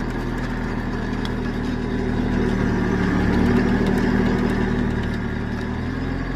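Engine of a heavy machine running steadily, working harder with a slight rise in pitch from about two seconds in, then settling back near the end.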